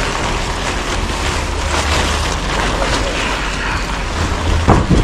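Steady rushing noise with a low rumble, like wind buffeting the microphone.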